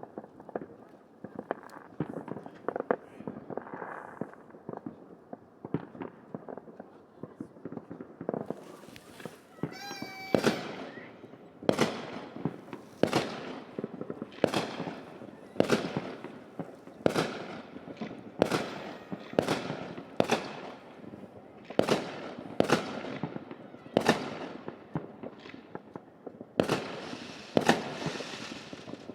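New Year's fireworks going off: a patter of smaller bangs and crackles at first, a whistling shell about ten seconds in, then a steady run of loud bangs a little more than one a second, each trailing off in echo.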